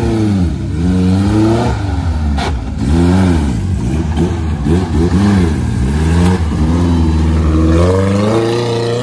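Suzuki off-road 4x4's engine revving up and down over and over as it crawls across rough ground, its pitch rising and falling repeatedly.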